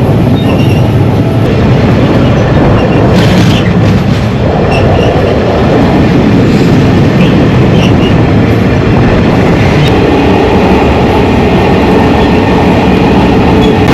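Diesel-hauled passenger train running along the track, a loud, steady rumble of wheels on rails.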